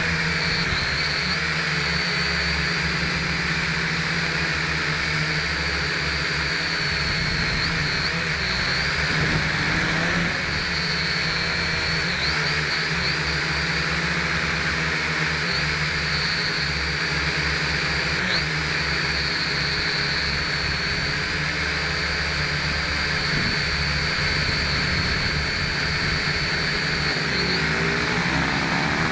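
Small quadcopter's electric motors and propellers running steadily, heard from a camera mounted on the craft: a high, wavering whine over a dense rush, with fluttering wind buffeting low down.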